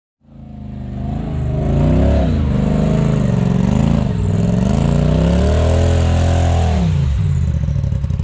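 Side-by-side UTV engine revving up and down under load on a rock climb, then dropping back to a steady idle about seven seconds in.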